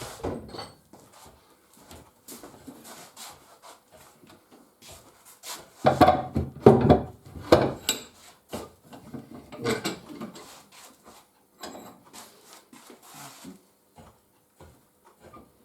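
Restored Record No. 3 bench vice being worked: the screw turned by its handle and the sliding jaw run in and out, giving irregular knocks and rubbing, scraping sounds, loudest about six to eight seconds in.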